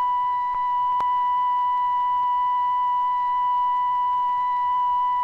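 A steady, unbroken high electronic tone, the 'drop' signal sounding for the bomb release, with a faint click about a second in.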